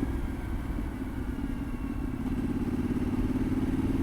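Yamaha Ténéré 700's parallel-twin engine running under way, with wind rumbling on the microphone. The engine note eases off in the first second, then builds and grows louder again from about two seconds in as the bike pulls.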